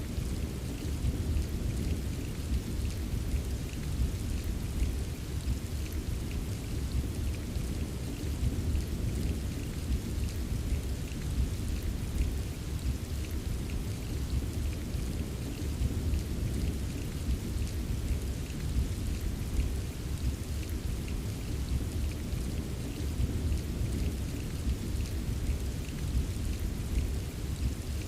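Steady rain ambience: an even hiss of falling rain with fine drop patter, over a constant deep rumble.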